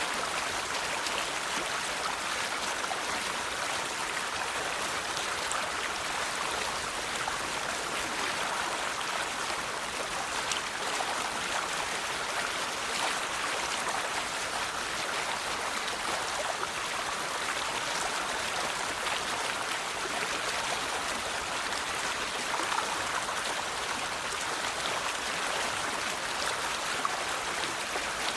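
River water flowing steadily over rocks, a continuous even rushing with small splashes and droplets.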